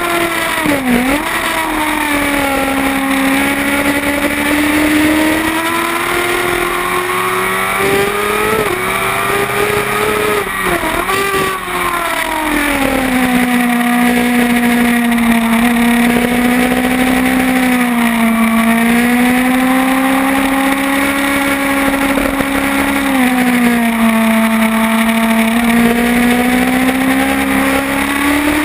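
Kawasaki ZX-10R inline-four sport bike engine at racing speed, with wind rush. The engine pitch drops sharply and comes back about a second in and again around eleven seconds, as the rider brakes and shifts down for corners. Between those drops it climbs slowly under throttle and holds fairly steady.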